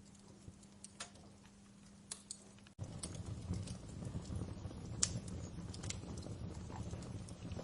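Wood fire in a fireplace crackling, with scattered sharp pops and snaps. About three seconds in, the sound cuts abruptly to a louder low rumble under the crackle.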